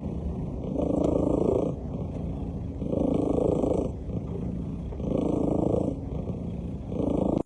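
Domestic cat purring loudly close to the microphone, a rough rapid rumble that swells about every two seconds with its breathing.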